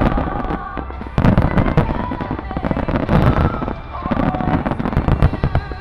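Dense barrage of fireworks, overlapping shell bursts with crackling, pops and deep booms, surging about a second in and again near the end. Music with a held melody plays underneath.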